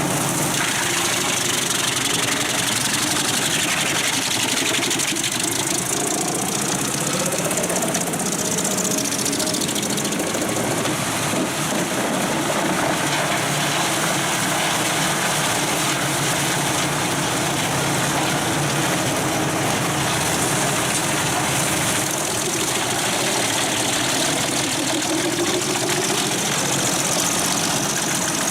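Pezzolato PTH 1400/1000 Allroad self-propelled wood chipper working: its Volvo engine runs under load while the spinning steel drum chips logs. It is a loud, steady din, and the engine pitch rises a couple of times as the load changes.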